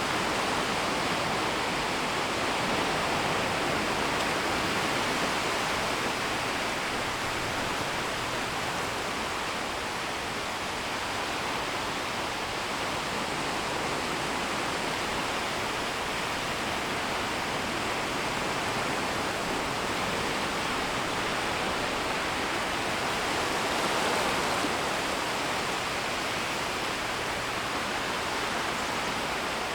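Gentle, shallow shoreline waves washing in and out: a steady rush of water that swells and eases slowly, with its biggest swell about three-quarters of the way through.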